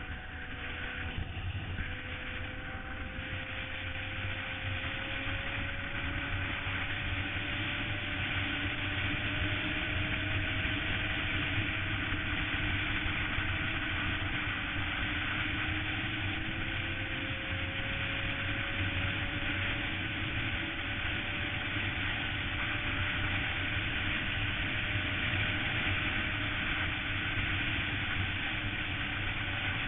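Suzuki GSX-R sportbike's inline-four engine running at highway speed under a steady rushing noise, its pitch slowly climbing, dropping briefly about halfway through, then rising again.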